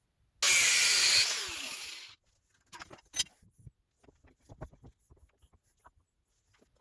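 A power tool runs in a short burst of under two seconds, its noise fading as it winds down, followed by scattered light taps and clicks of parts being handled.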